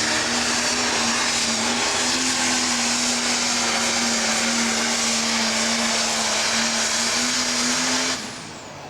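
Pro stock pulling tractor's turbocharged diesel engine running flat out at steady high revs, with a held engine tone and a high turbo hiss. The sound cuts off abruptly near the end.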